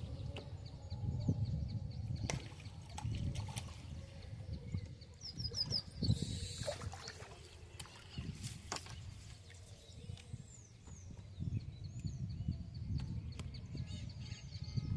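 Outdoor ambience: an uneven low rumble with scattered short bird chirps, a few sharp clicks, and a thin high steady note near the end.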